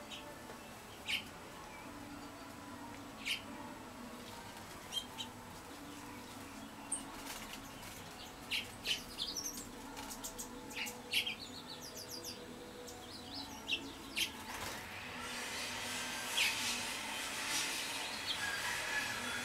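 Small wild songbirds chirping: short high calls at irregular intervals, some in quick runs of notes. About three quarters of the way through, a soft rushing noise rises and continues under the chirps.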